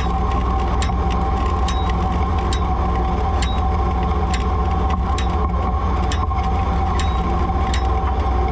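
Ford 3000 tractor engine running steadily under light load, with a constant whine over the low engine note. Sharp mechanical clicks repeat at an even pace, a little more than one a second.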